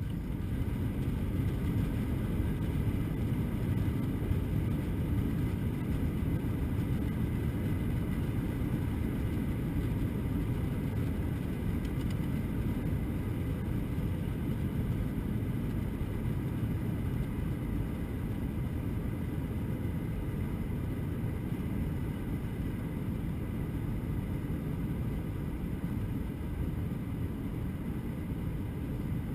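Airbus A321 airliner cabin noise: a steady low rumble of engines and rushing air, with faint steady whines above it.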